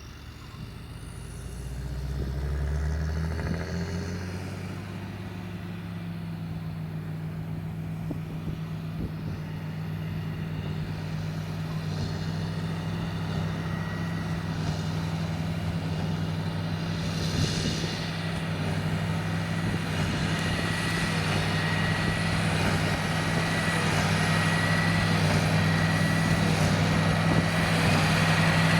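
John Deere 8330 tractor's diesel engine working under load with a Krone BigPack square baler in wheat straw. The engine note rises in pitch within the first few seconds, then holds steady. A thin high whine joins about halfway, and the whole sound grows steadily louder as the outfit comes closer.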